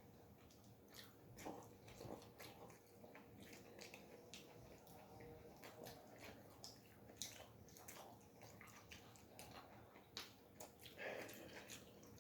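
Faint, close-miked chewing of pizza: irregular wet mouth clicks and smacks.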